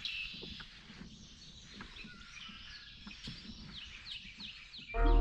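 Birds chirping outdoors, with a quick run of short, high, downward-sweeping notes toward the end. Loud music starts just before the end.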